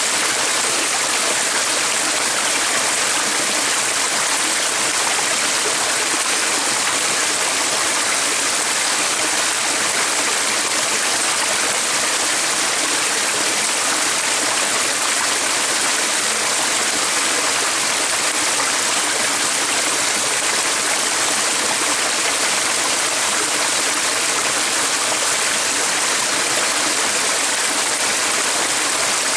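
Flowing stream water rushing steadily: an even, unbroken hiss.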